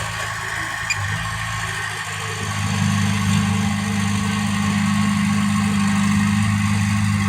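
Heavy diesel engine running steadily, growing louder and fuller about two and a half seconds in as it takes on more load or throttle.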